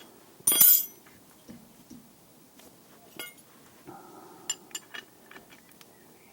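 Metal tools clinking against a brake caliper wind-back tool: one loud clatter about half a second in, then a series of light sharp clicks as the tool is worked to wind back the caliper piston.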